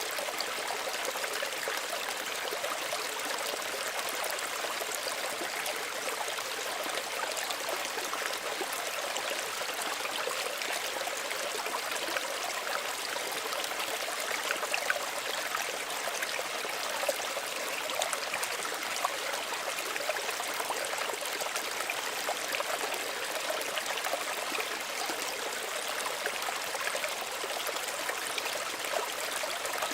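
Small stream running steadily over stones, a continuous splashing and trickling with small plops here and there.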